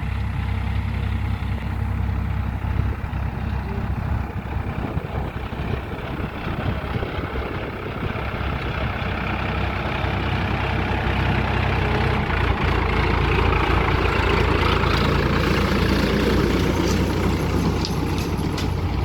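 Sonalika tractor's diesel engine running steadily, louder and heavier from about twelve seconds in.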